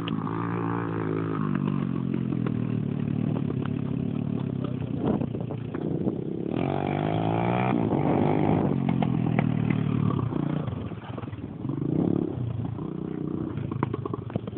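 Dirt bike engine running and revving, its pitch rising and falling several times, loudest about six to eight seconds in.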